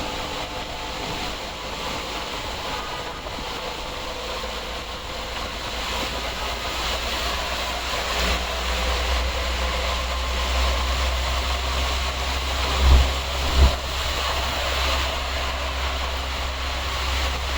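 Road traffic moving through floodwater: a steady rumble of vehicle engines mixed with the wash of tyres through standing water, with two short low thumps about three quarters of the way through.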